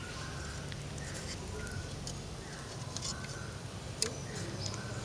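Faint short bird chirps and scattered light clicks and taps, with a sharper click about four seconds in.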